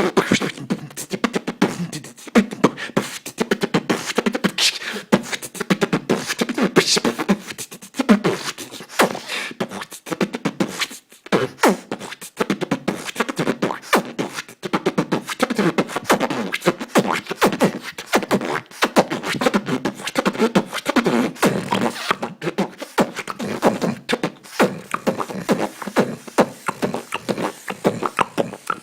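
Solo beatboxing: a man's mouth-made drum sounds, rapid clicks, kicks and hissing snares, mixed with short hummed vocal tones in a fast, busy rhythm, with a brief break about eleven seconds in.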